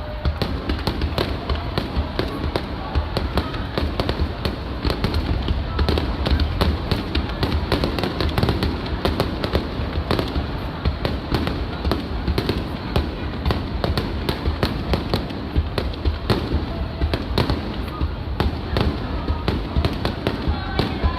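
Aerial fireworks bursting in rapid succession: a dense run of sharp pops and crackles over a continuous low rumble of booms.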